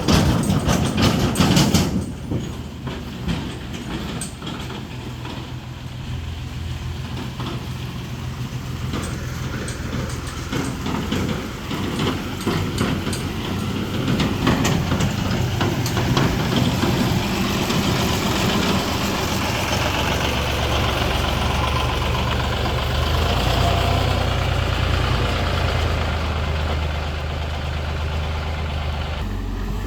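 Tractor diesel engine running steadily under load, as when pulling a fully loaded trolley, with a loud clatter in the first two seconds. It grows louder and rougher from about halfway through.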